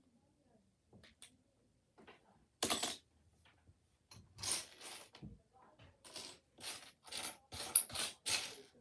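Plastic LEGO pieces clicking and rattling as they are handled. There is one longer clatter about a third of the way in, then a quick run of short clacks through the second half.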